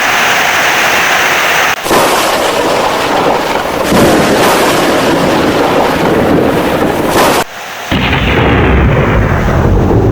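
Heavy rain with rumbling thunder as a loud, dense wash of noise, broken by two abrupt cuts, one a little before two seconds in and one about three-quarters through. After the second cut the sound is deeper, with more low rumble.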